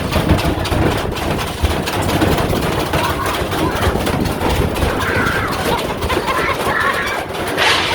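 Washing machine on a high-speed spin, rumbling and knocking as it shakes hard enough to jump about, with a sharp bang near the end.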